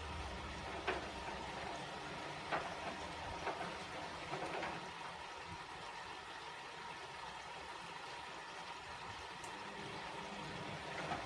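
Bosch WAE24162GB/03 washing machine in its rinse cycle with Aquaplus, water running and sloshing in the drum. A few brief knocks come in the first half.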